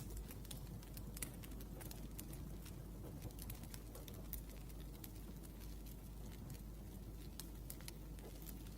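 Wood fire crackling, with many small irregular pops and snaps over a soft low rumble.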